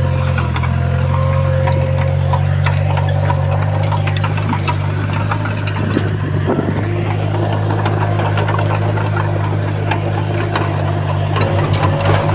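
Diesel engine of a heavy earthmoving machine running steadily, with scattered metallic clanks and clicks over it.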